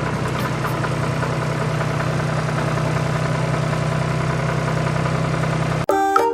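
Small electric motor of a homemade model tractor running with a steady hum. It cuts off abruptly near the end, and a music jingle starts.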